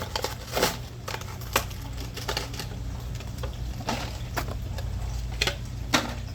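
Plastic blister pack of a Majorette toy car being handled and pried open: irregular sharp plastic clicks with crinkling between them.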